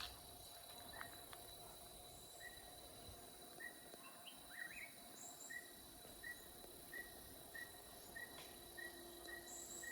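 Faint rainforest ambience: a steady insect drone under a bird's short high call, which begins a couple of seconds in and repeats evenly about every two-thirds of a second, with a few scattered higher chirps.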